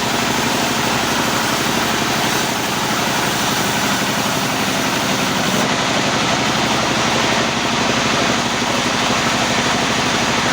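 Sawmill machinery running steadily: an engine drone with dense mechanical noise that keeps an even level throughout.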